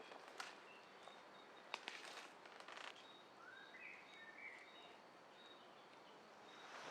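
Quiet outdoor ambience with faint bird calls: short repeated high notes and a rising whistle a little past the middle, plus a few soft clicks.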